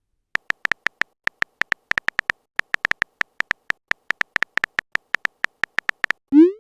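Phone keyboard typing sound effect: a rapid, irregular run of short, identical ticks, about six a second, stopping shortly before the end.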